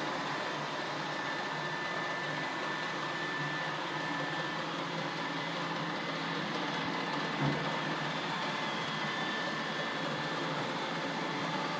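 Roomba robot vacuum cleaners running: a steady whir of suction motor and brushes with a thin high whine, and a soft bump about seven and a half seconds in.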